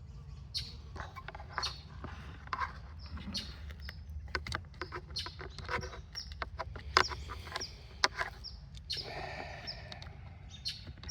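Birds chirping with short falling calls, over a series of sharp clicks and knocks from handling; the loudest knocks come about seven and eight seconds in. A steady low hum runs underneath.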